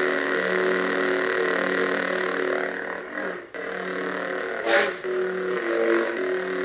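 Replica lightsaber's sound board playing a Kit Fisto–themed sound font: a steady pitched electric hum. It dips briefly a little after three seconds and a sharp swing sound cuts through near five seconds.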